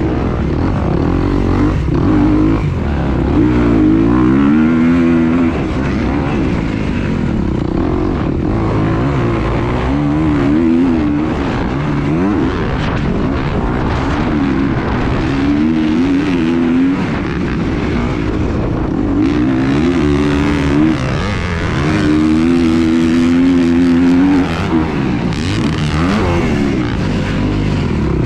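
An engine running continuously, its pitch repeatedly rising and falling every few seconds as it speeds up and eases off or passes by, over a low rumbling noise.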